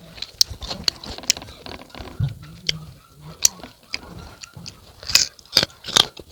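Close-up chewing and biting of crisp unripe fruit: irregular wet crunches and sharp clicks from the mouth, a few louder bites near the end.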